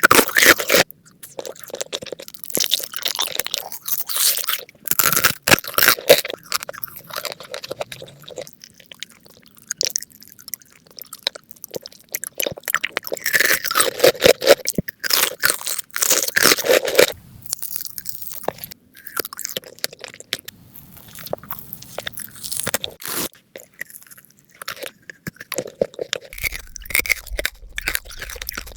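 Close-miked eating sounds: irregular crunchy bites and chewing of crisp food, with loud crackly crunches around the start and again about halfway through.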